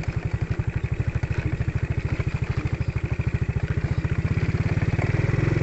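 Motorcycle engine running at low revs with an even, rapid beat. It picks up and grows louder about four seconds in.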